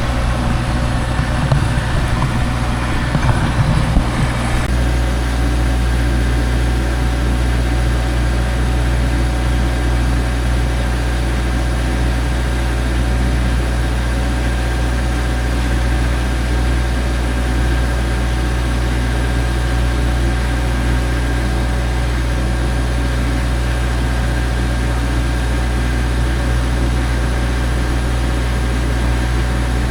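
An engine idling steadily with a low, even hum. There is some uneven rumbling noise over it until about four and a half seconds in.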